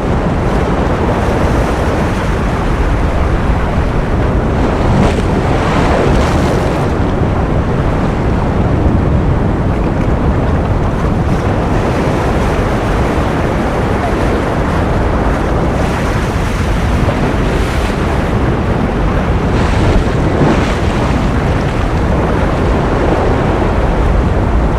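Steady ocean-surf noise: a continuous rush, swelling briefly a few times.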